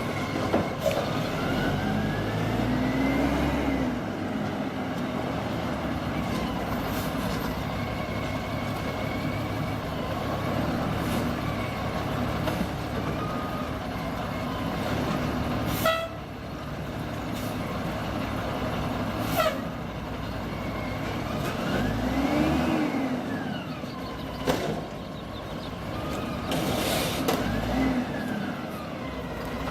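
Garbage truck running, with a whine that rises and falls in pitch several times and a few sharp bangs.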